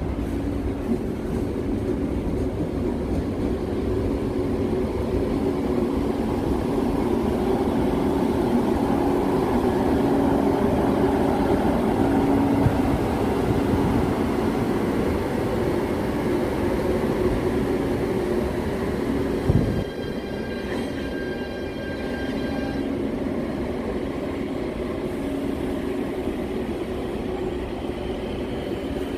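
Korail diesel-electric locomotive passing slowly at close range, its engine drone and wheels rumbling on the rails, with a second locomotive following behind. There is a thump about two-thirds through, followed by a few seconds of thin high ringing, and then the rumble eases as the train moves off.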